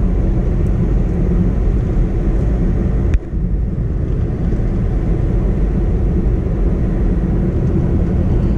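Steady low rumble of a car driving on a paved road, tyre and engine noise heard from inside the cabin. A sharp click about three seconds in is followed by a brief dip in the rumble.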